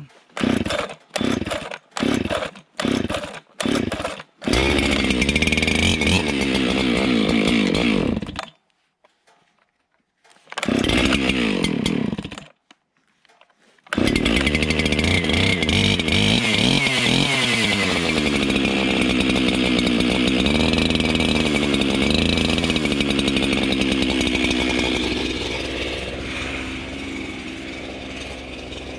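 Jonsered 2165 two-stroke chainsaw being cold-started. Several quick pulls on the starter cord are followed by the engine catching and running for about four seconds before it dies. It catches briefly again and dies, then starts about 14 seconds in and keeps running, its pitch dipping and rising at first before it settles.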